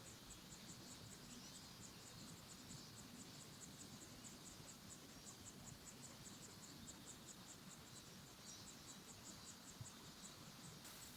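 Faint insect chirping: a steady run of evenly spaced high-pitched chirps, several a second, over a soft outdoor hiss.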